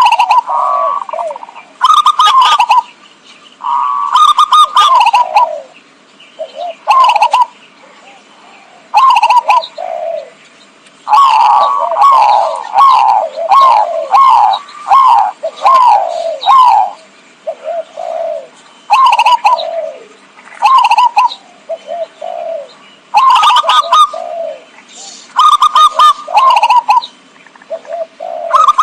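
Zebra dove (perkutut) cooing, played as a lure call: loud phrases of quick, clipped coo notes, each note dropping in pitch. The phrases are spaced a second or two apart, with one long unbroken run of notes in the middle.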